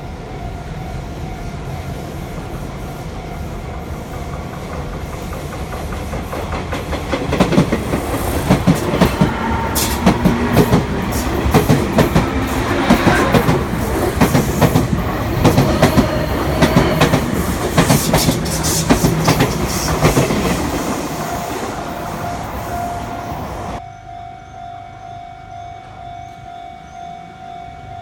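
A Sotetsu Line electric train passing over the level crossing, its wheels clattering rhythmically over the rail joints, loudest from about seven seconds in to about twenty seconds in. The crossing's warning bell rings steadily throughout, and near the end the train noise drops off suddenly, leaving the bell.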